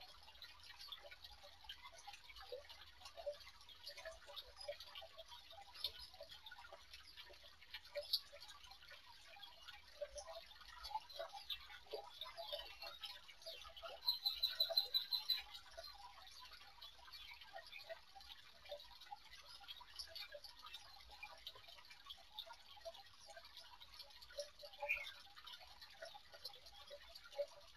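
Aviary birds: a steady scatter of faint small clicks and ticks, with a short, high, rapidly pulsing bird call about fourteen seconds in and a brief chirp near the end.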